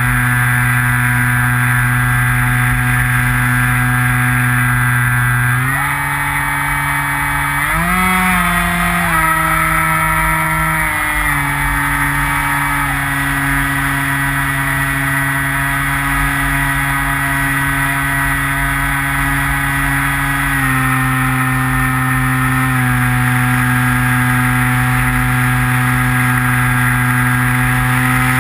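Skywalker FPV model plane's electric motor and propeller running at steady throttle, a loud whine heard from on board. Its pitch steps up about a fifth of the way in, climbs briefly higher, settles back, then rises and eases off again near the end as the throttle is changed.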